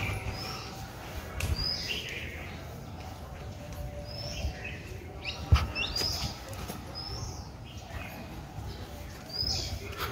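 Small birds chirping: short high chirps repeating about once a second. A low rumble runs underneath, and a single sharp knock comes about halfway through.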